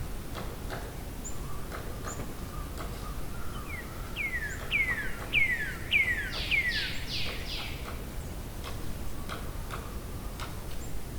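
Birdsong: a bird sings a run of about eight quick notes, each falling in pitch, in the middle, with scattered short chirps and ticks around it over a steady background hiss.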